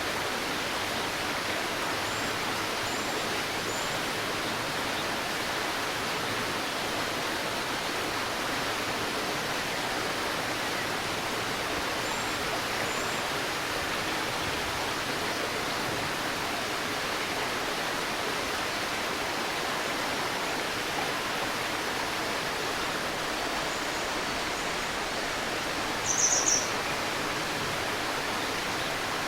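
Shallow stream babbling steadily over its bed, with a bird chirping faintly a few times high above the water noise and once more loudly and briefly near the end.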